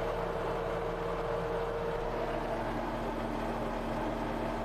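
Tracked skid steer engine running steadily; its steady whine shifts to a lower pitch about two seconds in.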